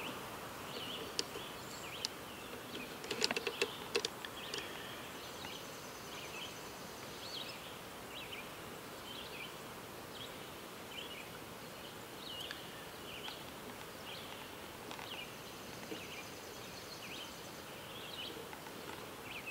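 Faint background hiss with small birds chirping on and off, and a few light clicks about three to four seconds in.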